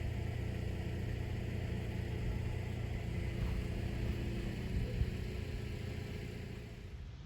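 A car driving by, its engine hum and tyre noise swelling and then fading away over several seconds, with the pitch dropping as it passes.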